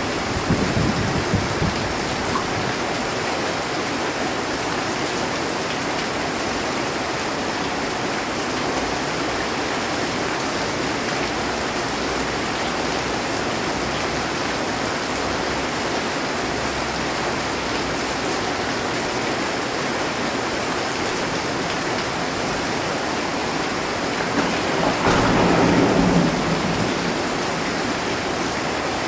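Heavy rain beating steadily on a metal roof. A low rumble of thunder fades out at the start, and a louder roll of thunder swells about 25 seconds in and dies away over a couple of seconds.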